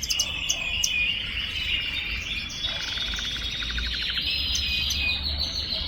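Young Timbrado canary singing a continuous song of rapid trills, its song still settling, with a lower, slower trill in the middle.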